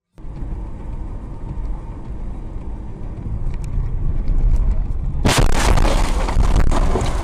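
Rocket launch: a deep rumble starts abruptly and builds, then turns into a much louder crackling roar from about five seconds in.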